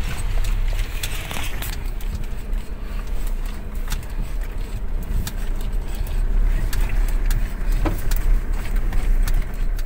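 Car on the move over a rough road: a steady low rumble with many small rattles and clicks throughout.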